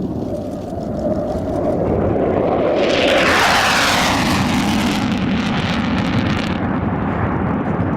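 Low-flying military jet passing: a rushing engine noise builds to its loudest about three to five seconds in, its pitch falling as it goes by, then a lower rumble carries on.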